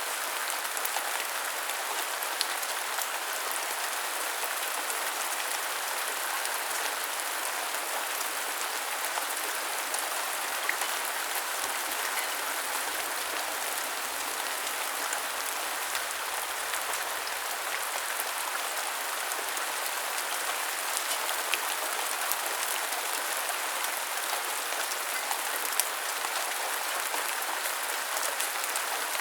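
Steady rain falling: an even, dense patter with a few sharper drop ticks here and there.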